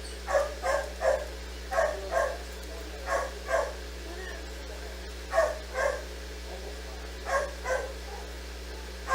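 A dog barking repeatedly, short barks in quick pairs or triples, about a dozen in all.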